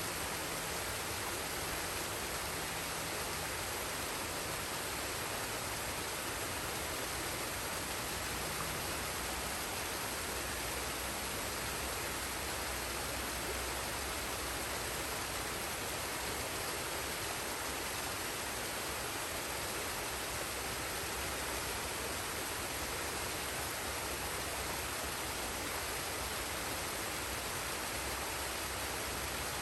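Forest waterfall and stream: water falling and rushing in an even, unbroken hiss.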